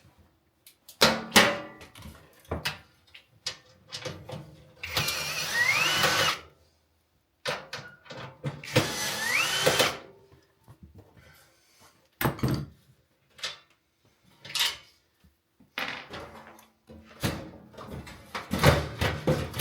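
Cordless drill-driver run twice in short spells, each rising in pitch as it spins up and then holding, backing out the screws on an oven's bottom panels. Knocks and clatters of the panel and its parts come between the runs.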